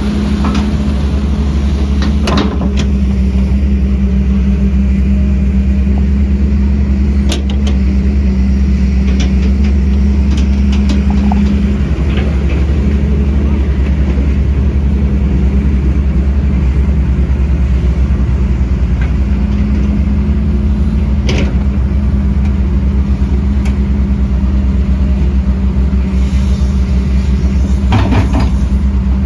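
Heavy diesel construction machinery running steadily with a deep, continuous engine hum, broken a few times by short sharp knocks or clanks.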